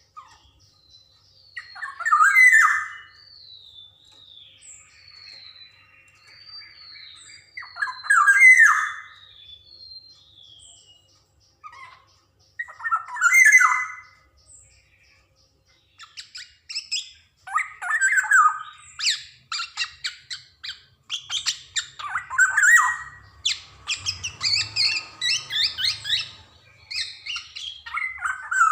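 Black-naped oriole (kepodang) calling: loud harsh calls every five or six seconds, with faint short down-slurred whistles between them. From about halfway through, the calls come thick and fast in a run of rapid chattering notes.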